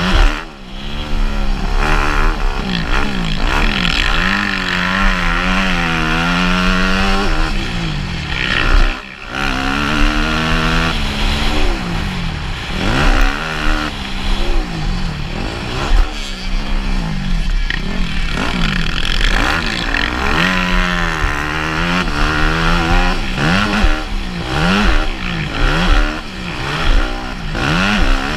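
Motocross bike engine revving hard and falling off again and again, climbing in pitch through each gear and dropping back, over a steady low rumble. The engine note drops away sharply twice: just after the start and about nine seconds in.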